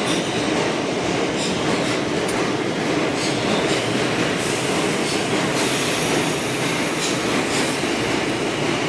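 Pullman-Standard R46 subway car running between stations, heard from inside: a steady rumble of wheels and rail, with scattered sharp clicks as the wheels pass over rail joints. A faint high whine comes in for about a second past the middle.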